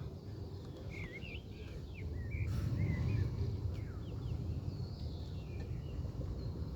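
Small birds chirping and twittering in short, quick phrases over a continuous low rumble that swells for a second or so about two seconds in.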